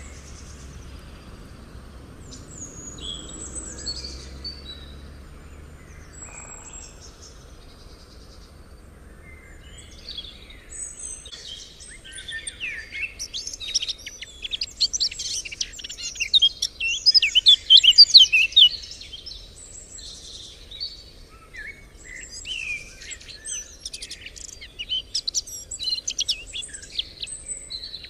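Birds singing: a few scattered high calls at first, then from about ten seconds in a dense run of rapid high-pitched chirps, loudest a little past the middle, which eases briefly and picks up again near the end.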